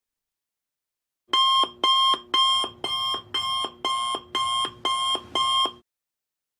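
Electronic alarm beeping: about nine short beeps, two a second, starting about a second in and stopping near the end.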